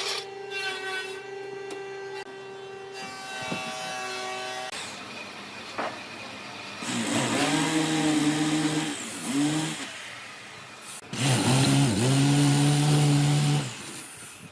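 Power tool running on wood: a steady motor hum, then two louder bursts of about two seconds each as it works.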